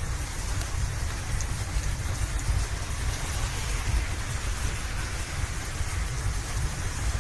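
Rain falling steadily over a continuous low rumble, with a few faint ticks.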